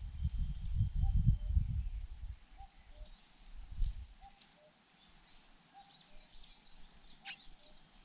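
Outdoor ambience: a low rumble for the first few seconds, then a quiet background in which a distant bird gives a soft two-note call, higher then lower, repeated about every second and a half, with faint high chirps over it.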